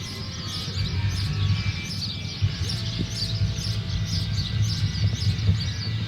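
Bird chirping repeatedly, about two short high calls a second, over a steady low hum.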